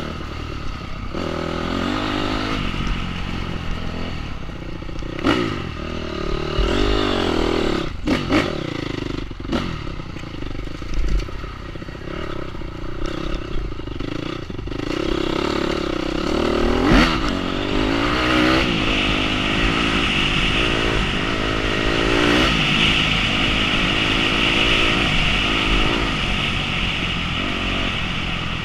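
Enduro dirt bike engine revving up and down as it is ridden, its pitch rising and falling repeatedly, with clattering knocks from the bike over rough ground; one knock about two-thirds through is the loudest.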